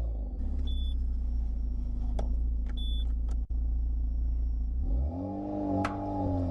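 A motor vehicle's engine rumbling steadily, with two short high beeps about two seconds apart. Near the end the rumble gives way to a sustained pitched tone with overtones.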